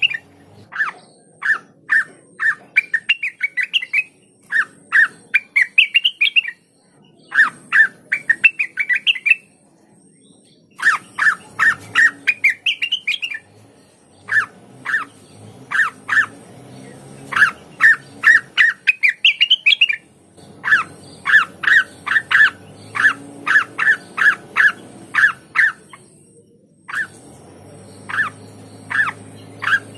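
Cucak wilis (rengganis) singing: phrases of quick, sharp repeated notes, some climbing in pitch, broken by short pauses.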